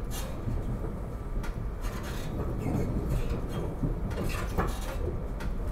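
Ride noise inside a moving SEPTA Regional Rail electric commuter train car: a steady low rumble with scattered sharp clicks and rattles.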